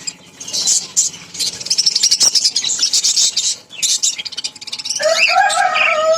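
Caged lovebirds chattering: a dense run of rapid, high-pitched chirps.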